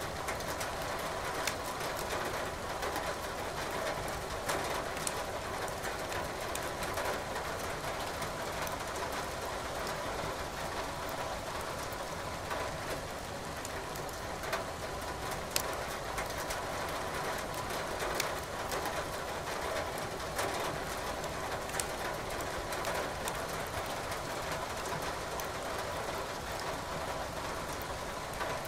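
Steady rain with scattered sharp crackles and pops from burning firewood in a fireplace.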